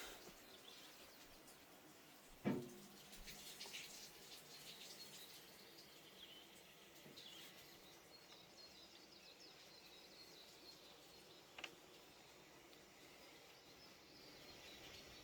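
Faint birdsong: scattered high chirps over quiet outdoor background noise. A sharp knock sounds about two and a half seconds in, and a smaller click comes later.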